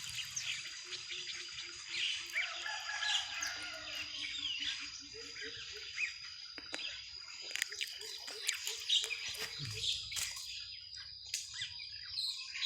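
Many birds chirping and calling, with short rising and falling whistles, over a steady high-pitched insect drone. Through the middle come runs of low, evenly repeated notes, several to the second.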